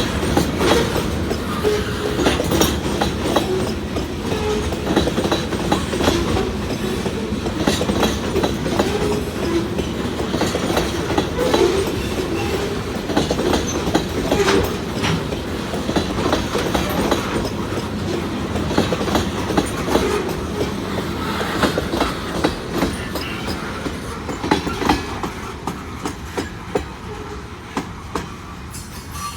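Loaded freight cars of a CSX freight train rolling past, their wheels clacking over rail joints, with a wavering squeal from the wheels. The sound eases off over the last few seconds.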